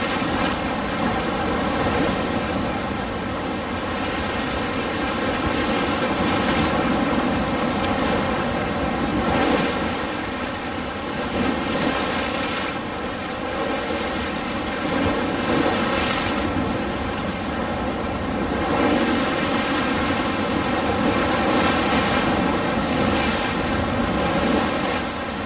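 Ocean surf washing in: a continuous rushing hiss of waves that surges and eases every few seconds.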